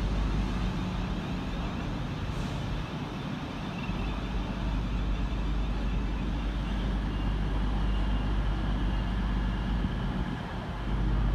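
Class 450 Siemens Desiro electric multiple unit running into the platform: a steady low rumble, with a faint high whine coming in about four seconds in.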